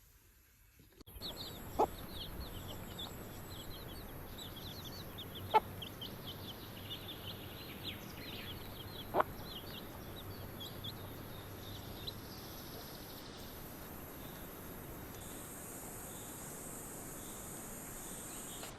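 Birds chirping rapidly in a dense run of short high chirps over a steady background hiss, dying away after about ten seconds. Three sharp clicks cut through, a few seconds apart.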